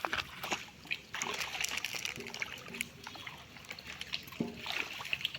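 Shallow pond water splashing and sloshing in small, irregular bursts with trickling, as people wade and work a fishing net in it.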